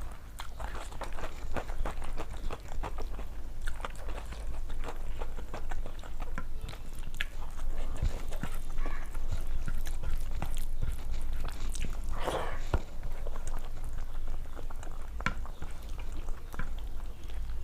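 Close-up eating sounds: chewing, with frequent small crunches and wet mouth clicks, and one louder crunch about twelve seconds in.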